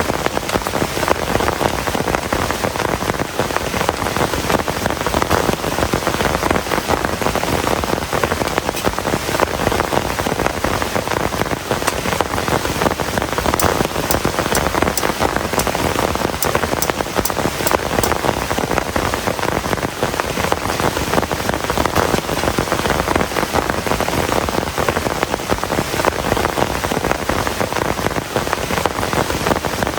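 Heavy rain falling steadily: a dense, even hiss of drops with no let-up. There is a brief run of faint, sharp high ticks near the middle.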